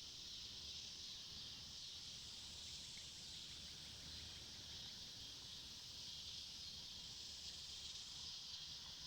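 Faint, steady insect chorus in the woods, an unbroken high hiss, with a low rumble underneath.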